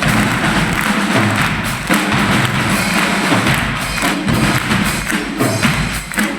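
Loud percussion-driven music: heavy drum beats and thuds over a backing track with a steady bass line.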